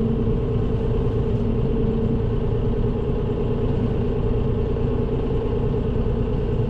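Tractor engine running at a steady speed while the tractor works.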